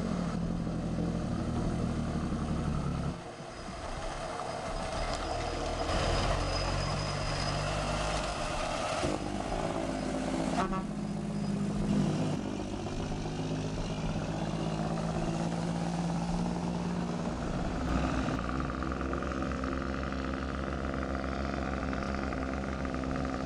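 1948 Peterbilt truck's engine running steadily. Its sound shifts abruptly a few times, with a brief dip about three seconds in.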